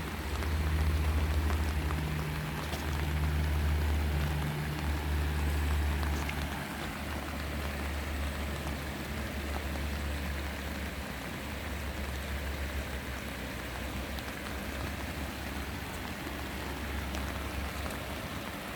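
Steady rain falling, an even hiss throughout. A low rumble sits under it for the first six seconds or so, then fades.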